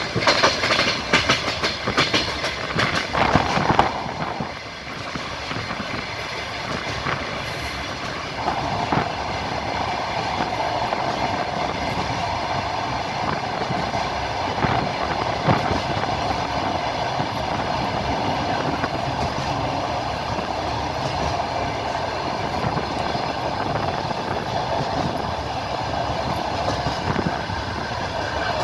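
Passenger train rolling along the track, its wheels clacking over the rail joints. There is a quick run of sharp clacks in the first few seconds, then a steady rolling rumble with a higher hum from about eight seconds in.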